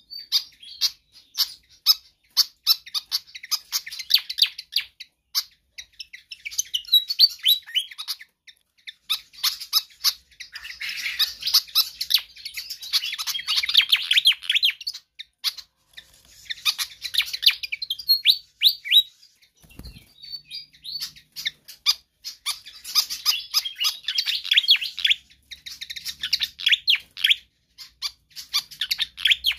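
Pied fantail singing persistently: rapid runs of high, squeaky chirping notes in bursts separated by short pauses. A brief low thump about 20 seconds in.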